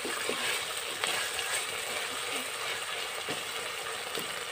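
Onion paste and chicken frying in oil in an aluminium pot, a steady sizzle, with a wooden spatula scraping and knocking against the pot a few times as it is stirred.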